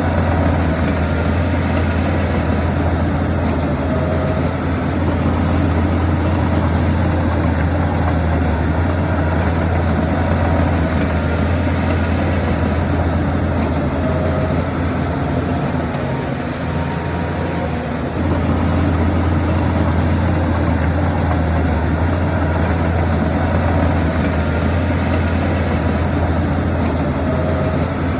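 Heavy diesel engine of earthmoving machinery running steadily with a deep, low hum. It eases off for a couple of seconds past the middle, then comes back up.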